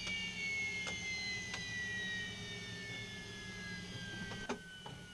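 Aero L-39 Albatros turbofan engine whining down, its pitch falling slowly and steadily over a low hum, with a few sharp clicks.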